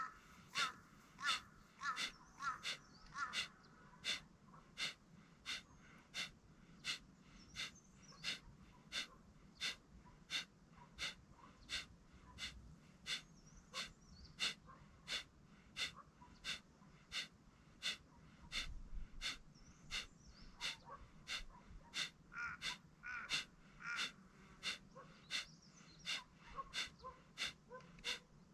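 Kapalbhati pranayama breathing: a steady series of short, forceful exhalations through the nose, about one and a half a second. Each puff is driven by pulling the stomach in, and the inhalations between them are passive and barely heard.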